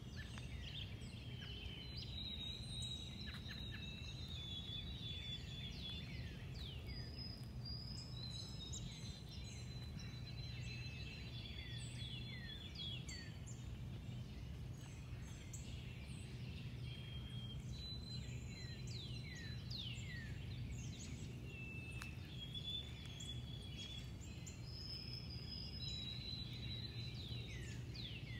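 Several small birds chirping and whistling: many quick down-slurred notes and short, flat, high whistles, repeated throughout, over a steady low outdoor rumble.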